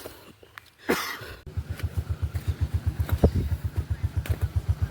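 Motorcycle engine running at low revs with an even, rapid low thumping, about nine beats a second, starting about a second and a half in. A short knock comes just before it.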